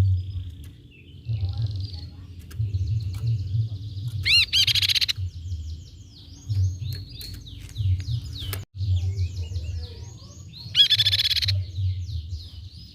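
Crescent-chested babbler calling: a run of quick chirps and short trills, with two loud bursts of rapid repeated notes about four and eleven seconds in, over a low rumbling background noise.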